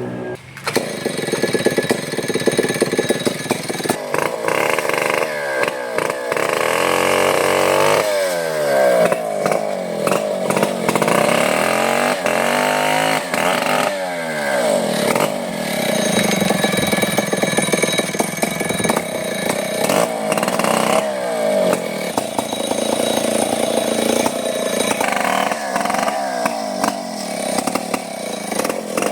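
Chainsaw running at high revs and cutting wood, its pitch repeatedly sagging under load and climbing again.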